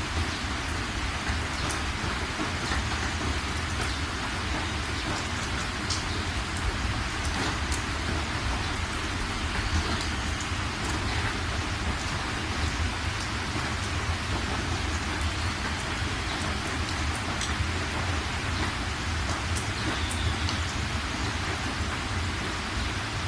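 Steady heavy rain falling and pattering on surfaces, with scattered sharp drop ticks and a constant low rumble underneath.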